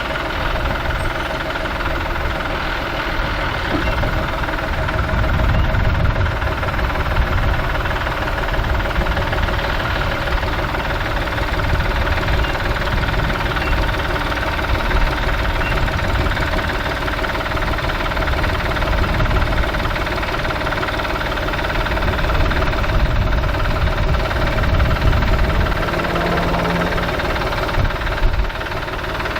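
Tractor engine running steadily at a constant speed, with no change in pitch.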